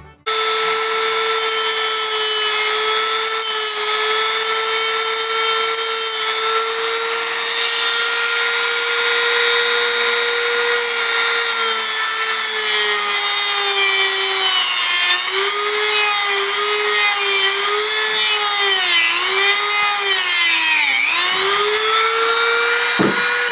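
Electric power tool sanding a wooden dowel, its motor running at a steady pitch. In the second half the pitch dips and recovers repeatedly as the tool is pressed into the wood.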